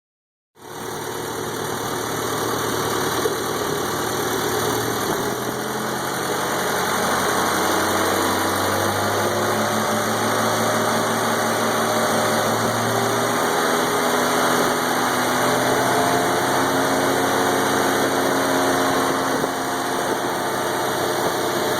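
Ford 8N tractor's four-cylinder flathead engine running steadily on its first run after being revived.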